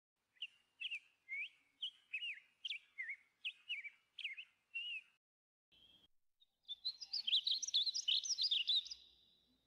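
Birdsong: a series of about a dozen short whistled notes, roughly two a second, then after a short pause a fast, jumbled twittering that is louder.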